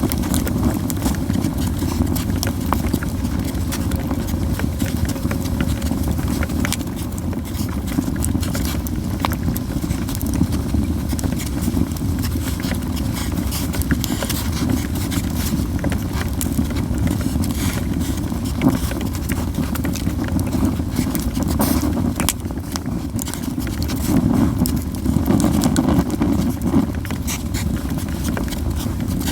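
Japanese yew firewood burning in a campfire, crackling with frequent sharp pops over a steady low rumble.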